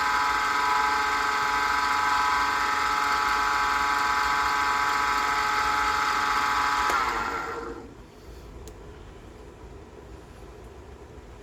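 Pen-turning lathe running with a steady whine, then switched off about seven seconds in and spinning down to a stop with a falling pitch.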